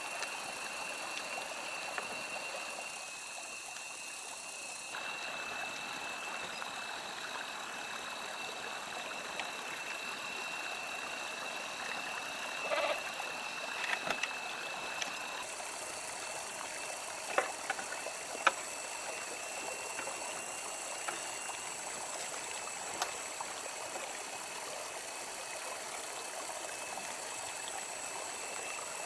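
Steady running water, a stream or trickle, with a thin steady high tone over it and a few sharp knocks about halfway through.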